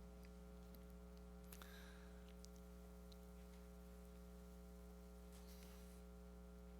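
Near silence: a faint, steady electrical hum with a few faint clicks.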